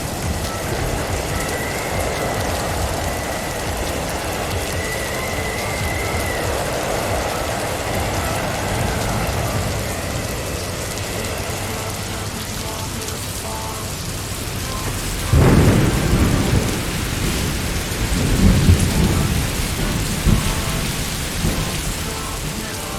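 Blizzard wind and driving snow making a steady rushing noise, with a sudden deep rumble about two-thirds of the way in and a few more rumbles after it.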